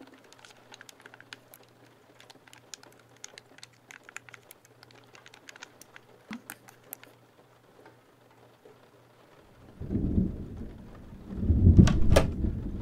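Light, quick tapping clicks like typing for the first several seconds. Then a thunderclap: a low rumble swells from about ten seconds in and breaks into a loud, sharp crack near the end, over steady rain.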